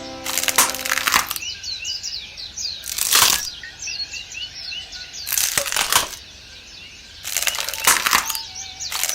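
Small birds chirping over and over in quick, thin calls, cut into by five loud, noisy bursts of about half a second to a second each.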